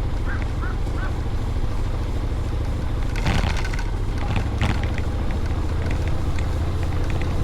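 Honda Forza 750 scooter under way: a steady low engine and wind rumble, with a brief rush of noise a little past three seconds in and another shorter one about a second later.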